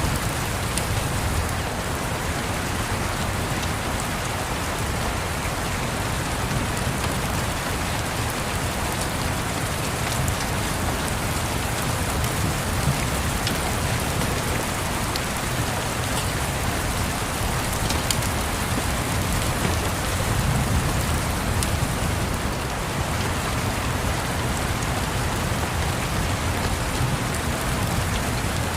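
Steady rain falling on a surface, a continuous patter with a low rumble underneath and a few sharp ticks about midway.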